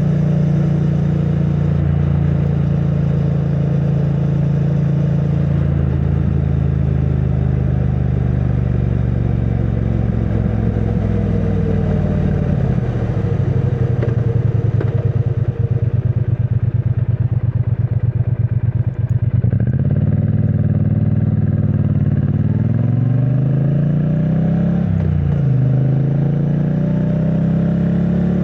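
2022 Triumph Bonneville T100's 900 cc parallel-twin through its stock exhaust, under way. It runs steadily, then about twelve seconds in the revs drop and the engine turns slowly with its separate beats audible. Later it pulls up through the gears, the pitch rising and falling back at each shift.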